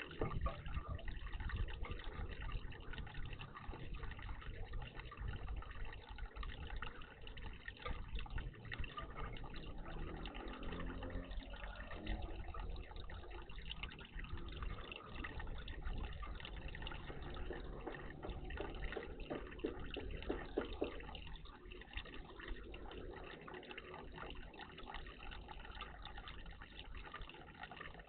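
Water running and splashing steadily in a garden bird bath, with a slightly busier patch of splashing twice.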